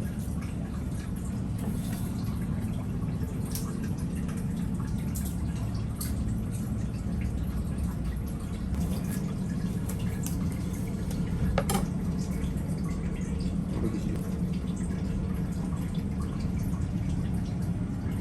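Thick carrot and potato curry being spooned out of a pan: wet scooping and dripping with scattered light clicks of the spoon against the pan, over a steady low hum.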